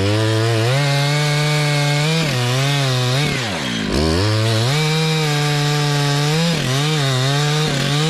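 Two-stroke chainsaw running at full throttle while cutting wood, its engine note dipping several times as the chain bites and loads it, then climbing back.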